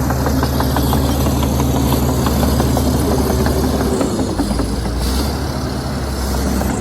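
Heavy diesel engine of a crawler bulldozer running steadily under work, with a rapid clatter of small knocks through the first half and a shift in engine pitch a little past halfway.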